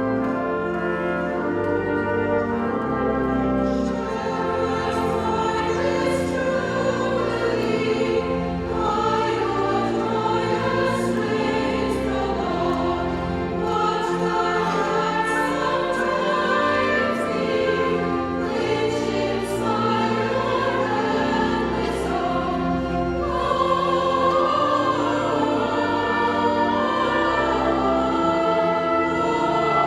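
A choir singing with orchestral accompaniment, brass included, in a steady full-voiced passage.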